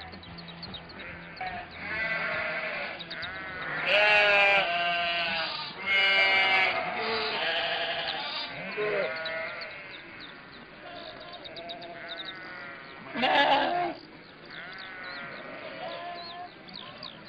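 A flock of sheep bleating: many overlapping wavering calls, with the loudest bleats about four and six seconds in and another strong one about three-quarters of the way through.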